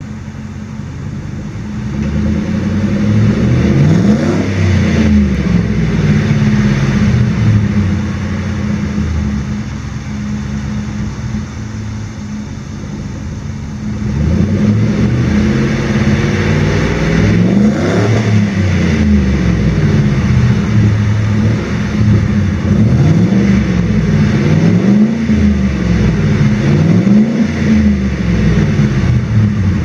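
2001 Ford F-150's 4.6-litre V8 running through a single loud Cherry Bomb glasspack muffler with stock catalytic converters, idling and being revved: one rev a few seconds in, a sharper, higher rev around the middle, then several quick revs in a row near the end.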